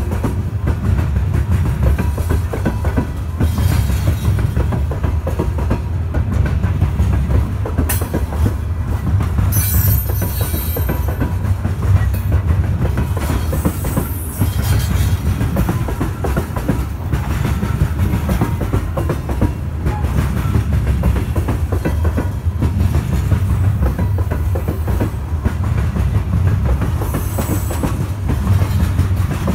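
Loaded coal train's open-top hopper cars rolling past close by: a steady rumble of steel wheels on rail with a continuous clickety-clack over the rail joints. A brief high wheel squeal comes about ten seconds in.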